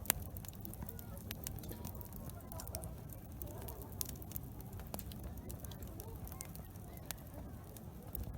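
Wood campfire crackling, with scattered sharp pops and one louder pop at the start, over a steady low background rumble.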